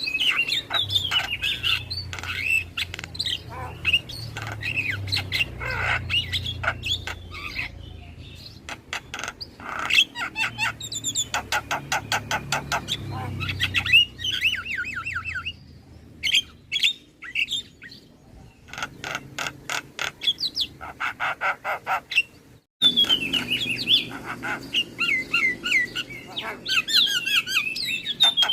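Javan myna singing a varied run of whistled, gliding notes mixed with harsh chatter and fast trains of clicks. The song breaks off for an instant about two-thirds of the way through, then resumes.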